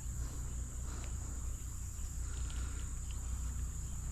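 Steady high-pitched insect chorus, with a low steady rumble underneath and a few faint ticks.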